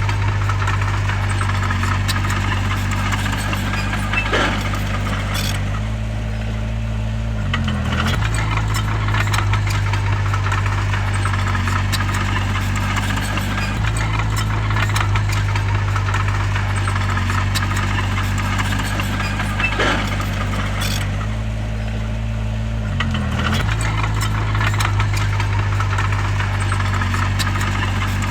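Bulldozer's heavy diesel engine running steadily, its pitch dipping and coming back up twice as it takes load, with a few sharp metallic clanks.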